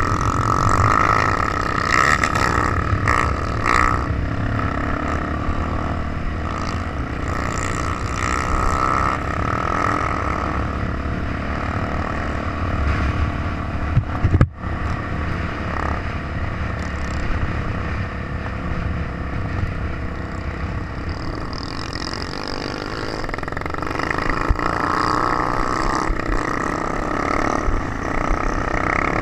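Trail motorcycle engine running on the move, loud and continuous, with one sudden short dropout about halfway through.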